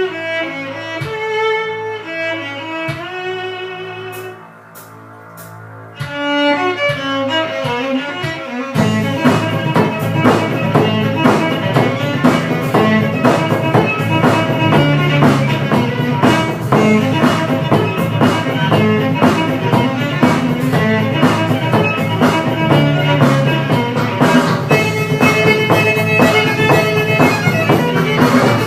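Violin music: a bowed melody played at first over light accompaniment, dropping away briefly about four to six seconds in. About nine seconds in, a fuller backing with a steady beat joins the violin and runs on.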